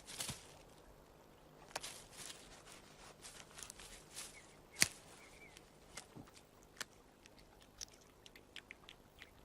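Faint, irregular small clicks and rustles from a coyote in grass with a field vole it has just caught, one sharper click about halfway through.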